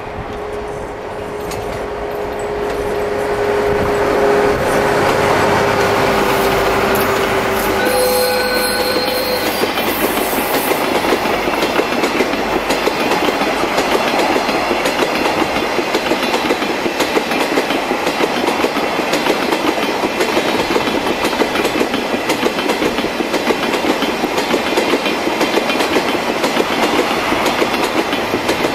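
A DD13 diesel-hydraulic locomotive runs past at the head of a tank-car freight train. For the first seven seconds or so its engine gives a steady drone that sinks slightly in pitch, with a brief tone about eight seconds in. After that the tank cars' wheels keep up a steady fast clickety-clack over the rail joints.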